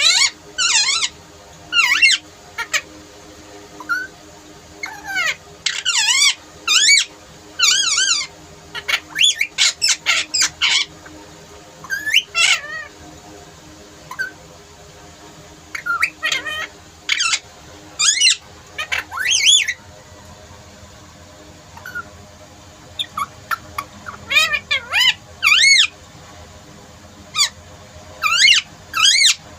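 Pet parrot squawking and calling in many short, high-pitched bursts, sometimes in quick runs of three or four, with brief pauses between.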